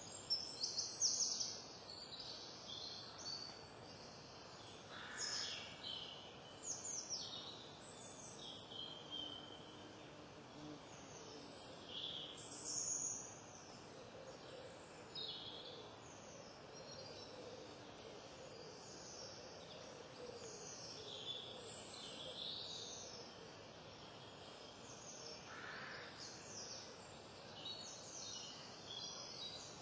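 Birds calling in many short, high chirps, scattered throughout, over a steady background hiss.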